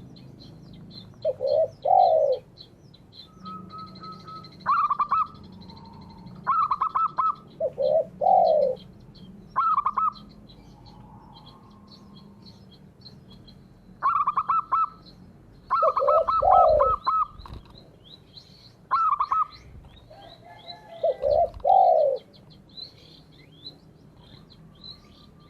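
Zebra doves and spotted doves calling in repeated short cooing phrases, some higher-pitched and some lower, coming in groups every few seconds. Faint high chirps of small birds run underneath throughout.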